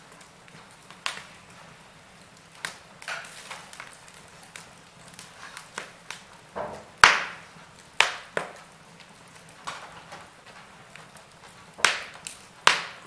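Wood fire burning in a fireplace: irregular crackles and sharp pops from the burning logs over a faint hiss, with the loudest pop about halfway through and a few more strong pops near the end.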